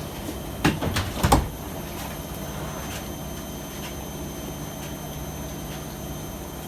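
AEG Öko-Lavamat 73749 washing machine running with a steady hum. About a second in, there is a quick cluster of three or four clunks.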